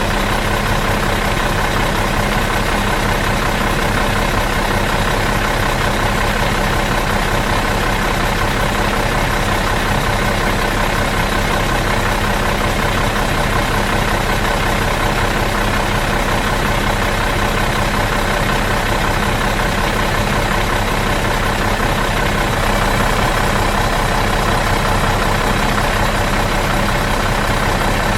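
Bus engine idling steadily out of gear, an even low hum with a constant pitch that never changes.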